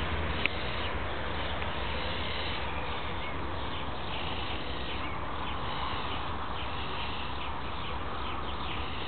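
Faint, short bird calls repeating from about three seconds in, over a steady low rumble and hiss, with one sharp click about half a second in.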